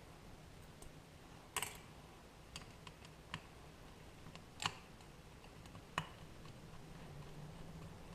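A handful of sharp, separate clicks and taps of small metal parts and hand tools being handled while a motorcycle carburetor is taken apart, over a faint steady low hum.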